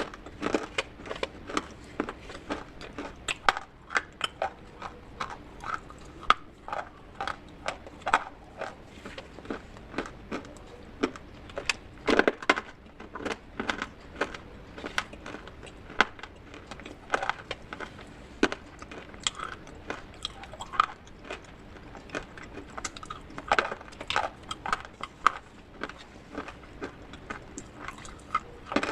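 Dry baked clay crunching and cracking, in a dense run of irregular sharp crunches with a few louder cracks.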